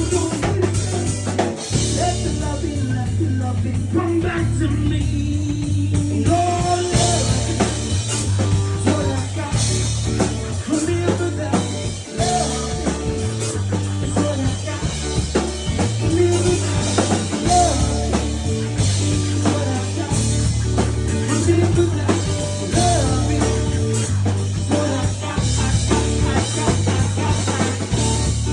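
A rock band playing live, with drum kit, bass guitar and electric guitar, and a voice singing in places.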